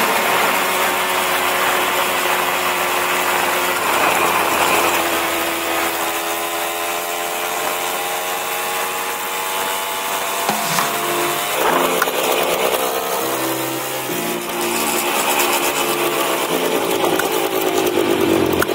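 1971 Yamaha HT1 90cc two-stroke single running as the bike is ridden, a buzzing note whose pitch falls and rises again as the rider eases off and opens the throttle.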